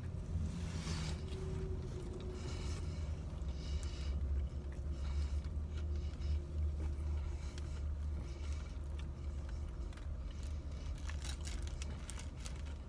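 Steady low rumble of a car idling, heard from inside the cabin, with a man chewing a mouthful of burger and a paper wrapper rustling now and then.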